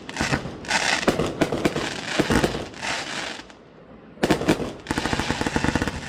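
Fireworks display: dense, rapid crackling of firework effects coming in waves, with a short lull about two-thirds of the way through before a fresh burst of crackling.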